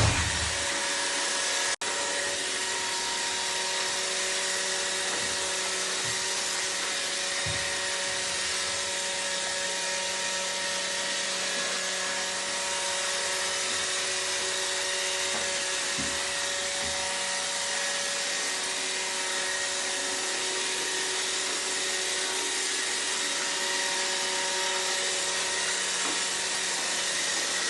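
iRobot Roomba robot vacuum running with a steady whir and hiss, with a few soft knocks here and there.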